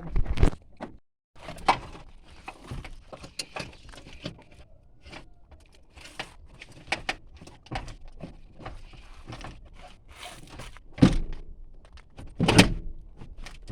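Irregular knocks, clicks and clunks of hands and tools working on a car, with a few heavier thuds: one just after the start and two close together near the end.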